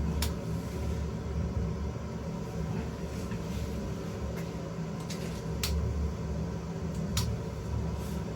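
Camping stove burning steadily under a pot of water, a low even rumble with a few sharp clicks, one just after the start and others near the middle and later on.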